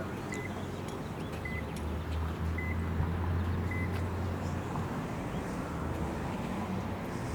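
Steady low drone of a car in motion, heard from inside the cabin, swelling a little midway. Four short high beeps about a second apart sound in the first half.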